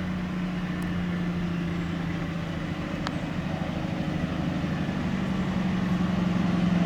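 Heavy engine running with a steady low drone, growing gradually louder, typical of a fire apparatus's diesel engine.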